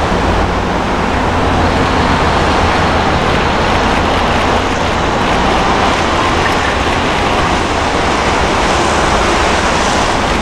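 JR 583 series sleeper electric train approaching slowly, a steady rumble of its wheels and motors mixed with road traffic noise.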